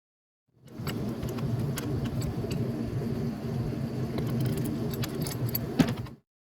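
Light metallic clinks and ticks of hand tools on metal, over a steady low mechanical hum; the sound starts and stops abruptly.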